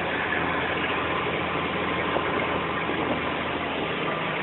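Small Cessna's piston engine and propeller running steadily, heard inside the cabin as an even drone.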